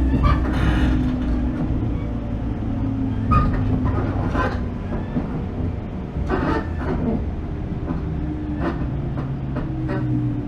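Cabin running sound of a 415 series 1500 subseries electric multiple unit: a steady rumble and motor hum, with several sharp rail clacks and knocks from the wheels and bogies.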